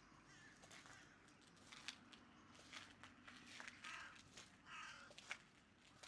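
Faint footsteps, a short scratchy step roughly once a second, over quiet street ambience.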